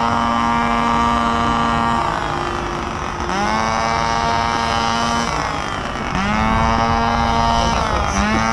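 Motorcycle engine on a stand, revved hard and held at its rev limiter with a high, chainsaw-like buzz. It drops off and climbs straight back up to the limiter three times.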